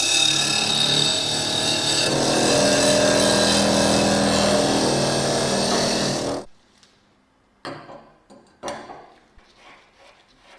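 A power tool running loudly and steadily, which stops suddenly about six seconds in. A few faint knocks and clicks follow.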